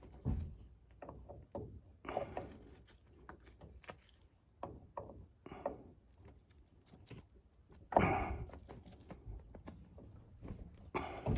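Scattered light knocks, clicks and rustling of hand work with tools on a battery cable clamp, with a louder knock about eight seconds in.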